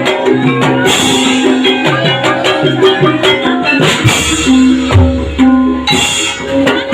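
Gamelan music of the kind that accompanies an ebeg trance dance: a busy hand-drum pattern under repeating ringing metallophone notes, with a deep drum stroke midway and a bright crash about a second in and again near the end.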